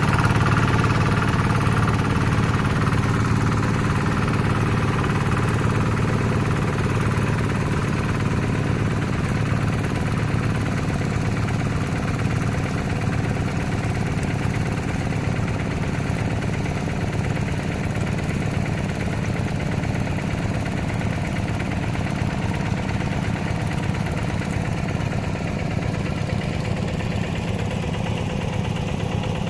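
Hand tractor engine running steadily, easing slightly quieter over the first few seconds.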